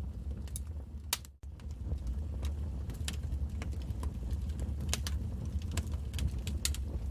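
Wood fire crackling: irregular sharp pops and snaps over a steady low rumble. The sound cuts out for an instant about a second and a half in.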